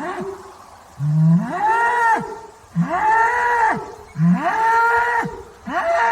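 Bull bellowing, a run of four calls about a second and a half apart, each rising in pitch, holding, then dropping off.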